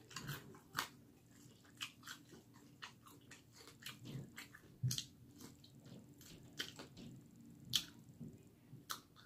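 A person biting and chewing fried chicken wings: irregular sharp mouth clicks and crunches, the loudest about a second in, near five seconds, near eight seconds and just before the end.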